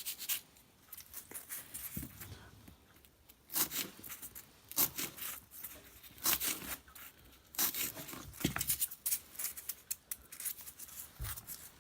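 Craft material being torn and cut by hand: short, scratchy tearing sounds at irregular intervals, about a dozen over the stretch.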